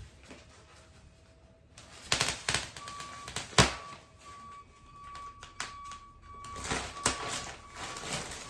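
Irregular knocks and clatter from hands-on work, with one sharp, loud knock about three and a half seconds in. A thin high tone keeps cutting in and out behind it.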